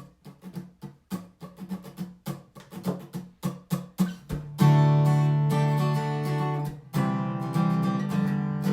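Background music on acoustic guitar: quick picked notes for the first half, then full strummed chords from about halfway through.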